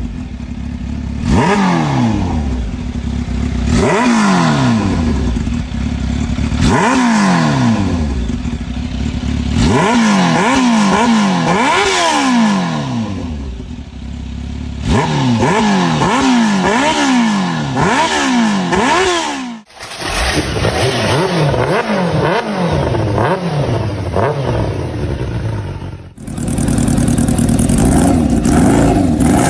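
Kawasaki H2 motorcycle engine and exhaust being revved again and again, the pitch climbing sharply and falling back each time. The sound breaks off abruptly twice, about two-thirds of the way through and again near the end.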